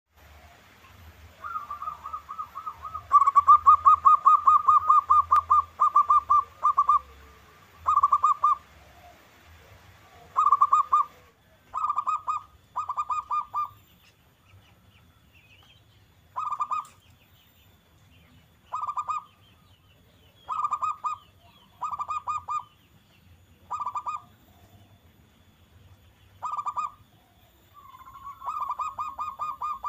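Zebra dove (perkutut) song: fast strings of staccato coos in short repeated phrases. A long run comes near the start, then short bursts every couple of seconds, then another long run near the end.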